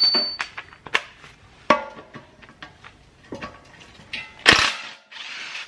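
Metal hand tools and sockets clinking and clattering, a run of sharp clanks, some ringing briefly, with the loudest clatter about four and a half seconds in, as the right socket for a suspension bolt is sought.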